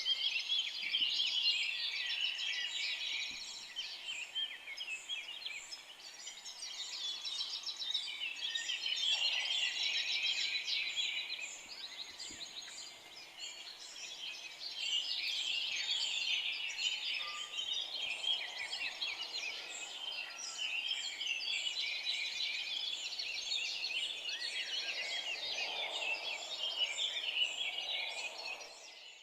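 A chorus of many forest songbirds singing and chirping at once, their dense overlapping calls swelling and easing in loudness.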